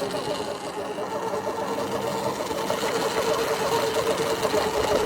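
Ventus 1+ electric dirt bike's drivetrain running with a steady whine and a fast, even ticking over it. This is the weird noise the bike is making.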